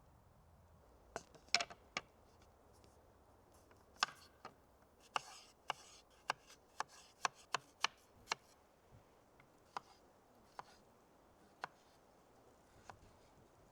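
A series of sharp chopping knocks, irregular at first, then about two a second through the middle, thinning out to single knocks a second or more apart near the end.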